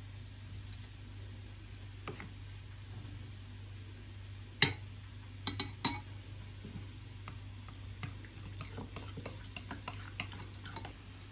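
Tableware and utensils clinking: one sharp ringing clink about four and a half seconds in, three quick clinks a second later, then a run of lighter taps and ticks, over a steady low hum.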